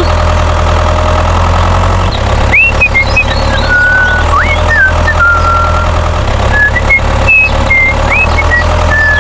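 Tractor engine running steadily at a low pitch, with a string of short, high chirping whistles over it from about two and a half seconds in.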